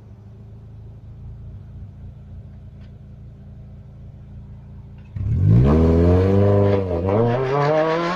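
Renault Clio RS 200 four-cylinder engine idling steadily, then revved hard about five seconds in. The revs climb, dip briefly and climb again near the end.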